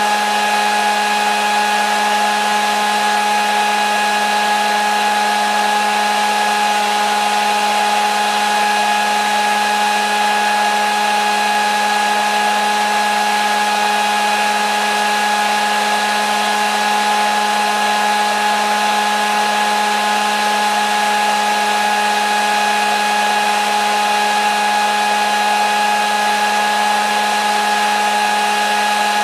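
Hair dryer running steadily: an even rush of blown air with a constant motor whine that never changes speed.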